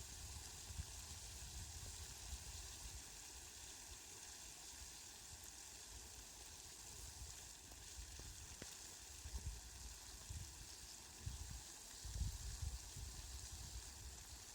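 Steady hiss of falling rain, with occasional low rumbles in the second half.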